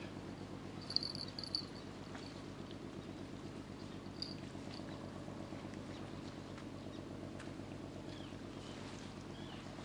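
Steady low engine drone of a passing river motor ship. A few short, high chirps come through about a second in.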